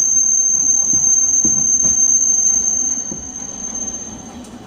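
Wheels of a Nagasaki Electric Tramway type 370 streetcar squealing against the rails: one loud, steady high squeal that stops near the end, with a few faint knocks from the running gear.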